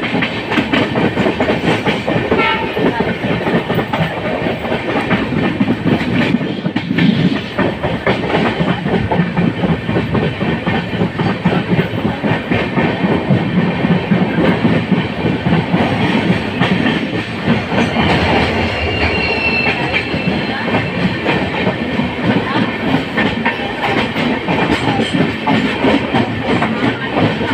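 Janshatabdi Express passenger train running along the track, with a steady rumble and a fast clickety-clack from the coach wheels on the rails.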